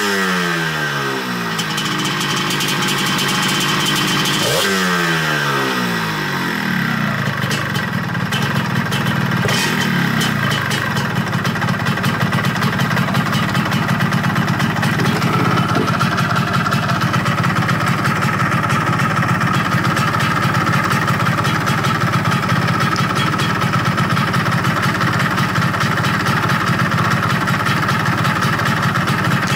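Yamaha RXZ 135's single-cylinder two-stroke engine: the revs fall away from a throttle blip at the start, it is blipped again about four seconds in and drops back, then it idles steadily.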